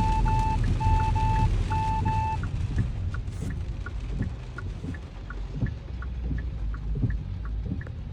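Steady low rumble of a car on the road heard from inside, with three pairs of short electronic beeps in the first couple of seconds and a regular light ticking about three times a second.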